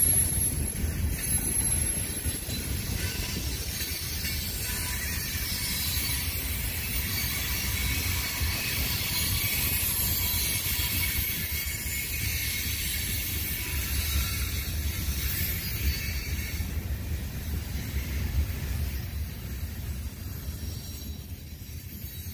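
Freight train cars rolling past at close range: a steady low rumble of steel wheels on the rails with a high hiss above it, easing slightly near the end.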